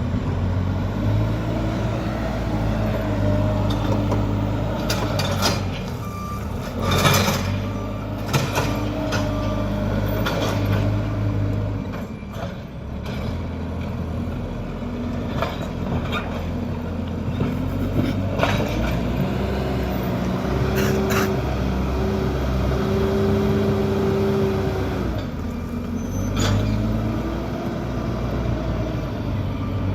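JCB backhoe loader's diesel engine running and revving up and down under work, with metal clanks and knocks now and then, the loudest about seven seconds in. A reversing alarm beeps a few times in the first third.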